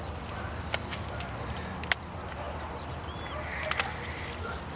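Insect trilling steadily in a fast, even, high-pitched pulse, with a short bird chirp about halfway through. A few sharp clicks cut in, the loudest just before two seconds in and a double click near the end.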